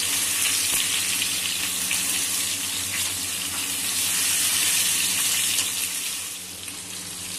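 Boiled taro roots (arbi) frying on high heat in hot mustard oil in a non-stick wok: a steady sizzle that eases a little near the end.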